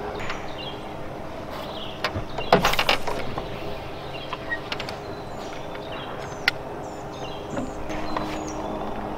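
Birds chirping in short calls over a steady low hum, with a brief loud clatter about two and a half seconds in and a sharp click a little past the middle.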